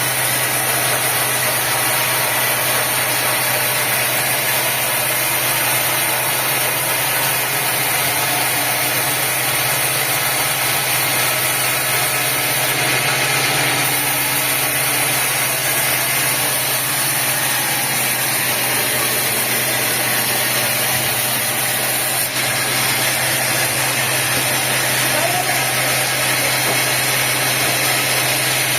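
Sawmill machinery running steadily: an even, unchanging engine-like drone with a low hum and a hiss.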